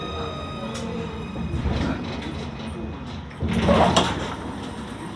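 Inside a C Class tram running toward a stop: running noise with a steady electric motor whine that fades in the first second, then a loud, brief noise about three and a half seconds in.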